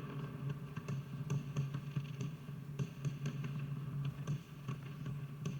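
Fireworks crackling and popping in irregular small clicks over a steady low hum, heard through a TV's speaker from a live news broadcast.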